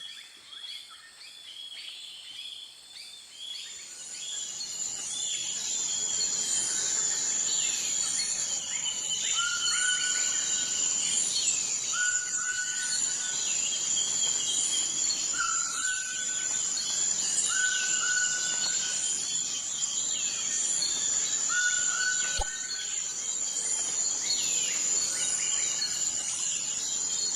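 Outdoor ambience of several birds calling and singing over a steady high insect drone, swelling in about four seconds in; one bird repeats a short level whistle every couple of seconds. A single sharp click about three quarters of the way through.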